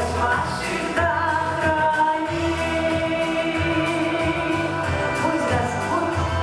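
A song: a sung vocal holding long notes over instrumental accompaniment with a steady bass line.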